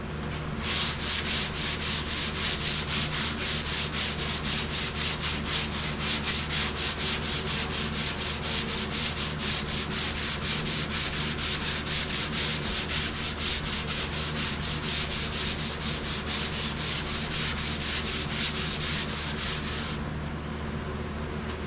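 Hand sanding on a vehicle's sheet-metal body panel: quick, even back-and-forth strokes, about three a second, which stop about 20 seconds in. The panel is being sanded down to show up surface flaws.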